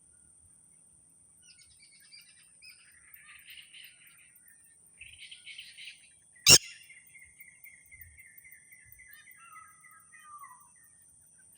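Birds chirping in clusters, then one long trill that falls slightly in pitch and a short falling note. A single sharp click about halfway through is the loudest sound.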